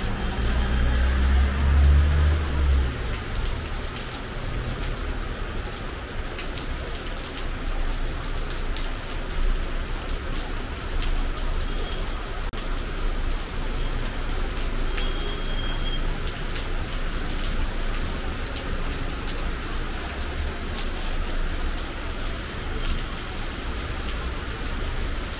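Heavy rain falling steadily, with many drops ticking on nearby surfaces. A low rumble sits under the rain for the first few seconds.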